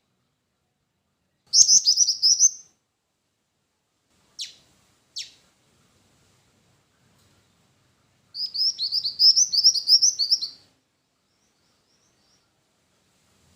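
Black-winged flycatcher-shrike (jingjing batu) singing: a rapid, high chattering trill about a second long, two short calls sliding steeply down in pitch, then a longer trill of about two seconds.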